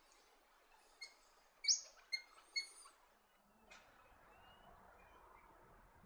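Small birds chirping: a quick run of about five short, sharp high chirps between one and three seconds in, the loudest just before the two-second mark, then a few faint, thin high calls over soft background noise.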